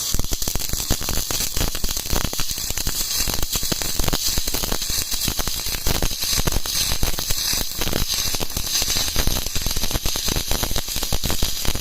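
Stick (shielded metal arc) welding arc, crackling and sizzling steadily as a bead is laid, then cutting off suddenly at the end.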